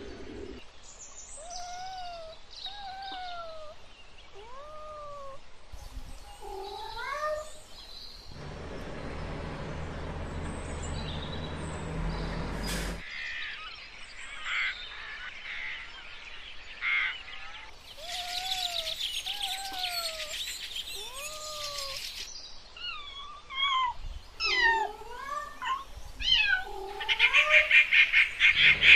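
Cats meowing over and over in short mews that rise and fall in pitch. About a third of the way in, the meows give way to a few seconds of steady noise.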